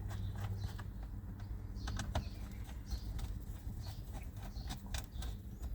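Scattered light clicks and taps of a screwdriver and plastic as screws are refitted into the steering column covers, over a steady low hum.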